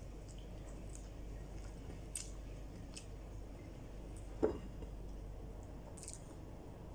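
A person chewing a mouthful of fried rice and corned beef eaten by hand, with faint wet mouth clicks now and then. A single short dull knock comes about four and a half seconds in.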